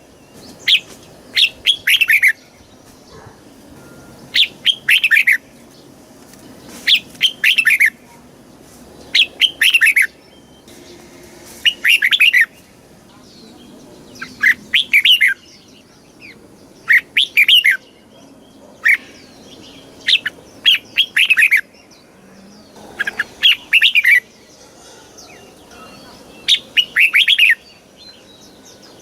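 Red-whiskered bulbul singing: short phrases of a few quick, clear, descending notes, repeated about every two seconds.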